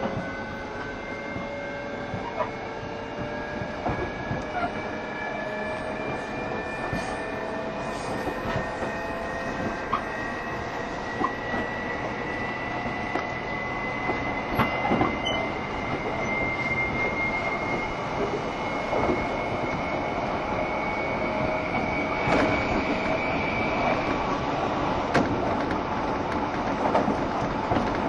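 JR Shikoku 7200 series electric train running, with the traction motor whine rising slowly in pitch as it gathers speed and then fading out near the end. Rail-joint clicks sound now and then over the steady rolling noise.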